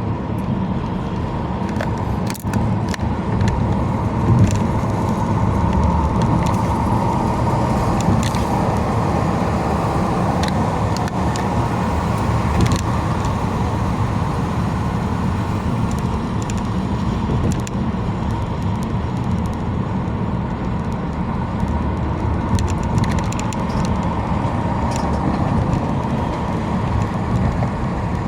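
Car driving at highway speed: a steady rumble of engine and tyres on the road, with a faint steady whine and scattered small ticks and rattles.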